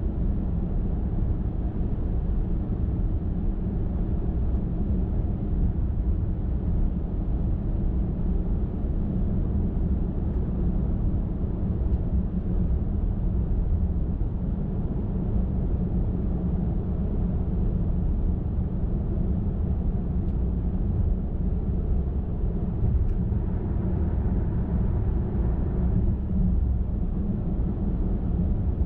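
Car cruising steadily on a highway: an even low drone of tyre, road and engine noise that doesn't change.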